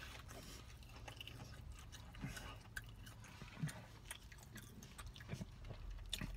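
Faint chewing of a mouthful of breaded fried chicken tender, with scattered small clicks and soft mouth sounds.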